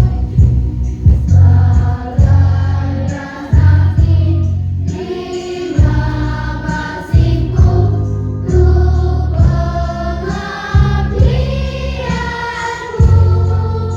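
A choir singing a song with instrumental accompaniment, sustained sung notes over deep bass notes that change every second or two.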